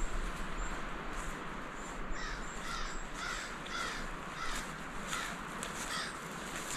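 A bird calling a series of short, harsh, repeated notes, about two or three a second, starting about two seconds in and stopping near the end, over a steady hiss, with light footsteps on the forest floor.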